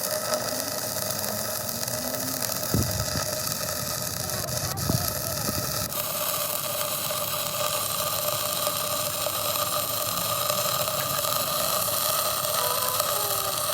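Steady workshop machine running with a constant hum and hiss, with a few knocks in the first half.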